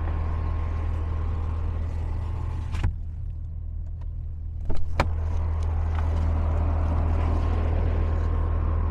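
An idling vehicle engine holding a steady low hum, with a sharp click about three seconds in and two knocks around five seconds in as the pickup truck's door is unlatched and opened.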